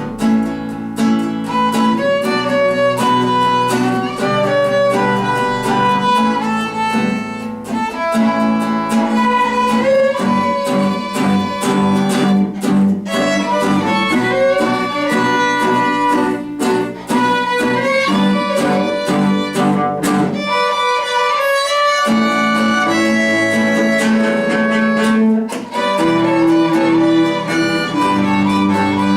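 Small string ensemble of two violins, a cello and an acoustic guitar playing an instrumental arrangement of a pop ballad, violins carrying the melody over strummed guitar and cello. The low parts drop out briefly just past the middle, then return.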